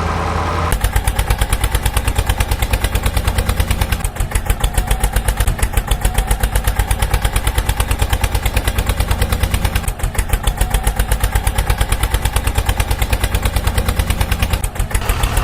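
Tractor engine running with a steady, rapid putt-putt of about seven beats a second, starting a little under a second in.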